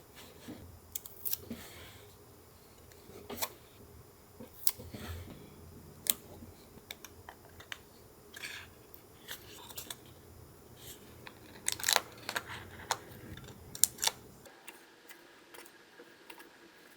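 Paper-crafting handling sounds from junk-journal collage work: scattered sharp clicks and taps with short soft rustles of paper, loudest in a cluster about twelve seconds in.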